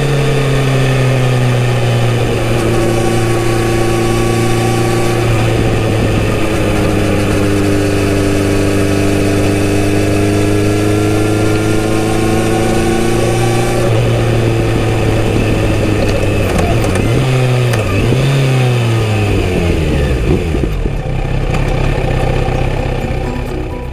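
Kawasaki Z900RS inline-four motorcycle engine running through a full-system exhaust, holding steady revs while riding. About seventeen seconds in it revs up and down twice through gear changes, then the revs fall away toward the end.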